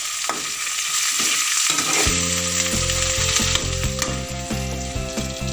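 Spice paste with pandan and kaffir lime leaves sizzling in hot oil in a wok, with a metal spatula stirring and scraping. Background music with long held notes comes in about two seconds in.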